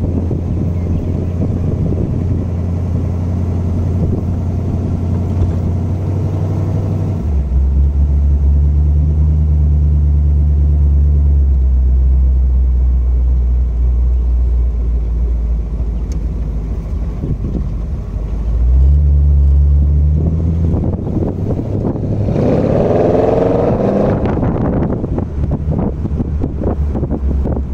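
1957 Ford Thunderbird's V8 engine running while the car drives. Its low drone drops in pitch and grows louder about a quarter of the way through, then rises briefly and drops again about two-thirds of the way through.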